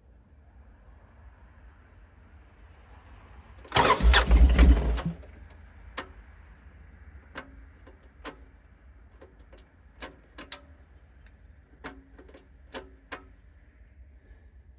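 Starter motor cranking the dumper's diesel engine for about a second and a half, then stopping without the engine catching. After it comes a scatter of light clicks and knocks.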